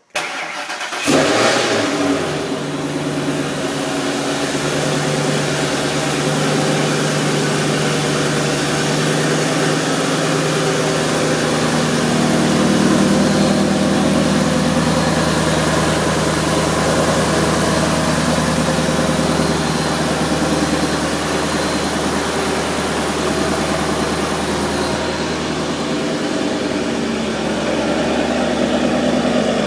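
Freshly installed 326-cubic-inch stroker V8, built from a Ford 4.6 three-valve, starting for the first time: it catches about a second in with a brief rev, then settles into a steady idle. The idle lifts a little partway through.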